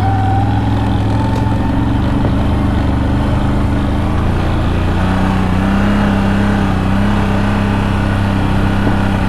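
CFMoto CFORCE 1000 Overland ATV's V-twin engine running steadily while riding along, its note settling to a slightly different steady pitch about halfway through.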